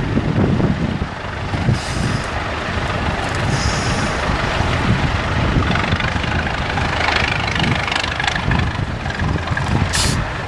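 IFA 4x4 trial truck's diesel engine running steadily with a low rumble, with a short sharp hiss of air near the end.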